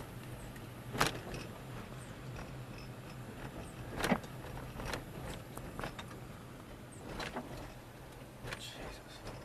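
Steady low hum of a vehicle from inside the cab as it drives, with half a dozen sharp clicks and knocks scattered through it, the loudest about four seconds in.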